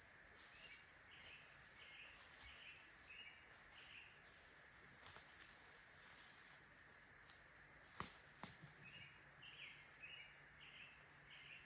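Faint bird song: a run of about six evenly spaced, repeated notes, sung twice, with two soft clicks in between about eight seconds in.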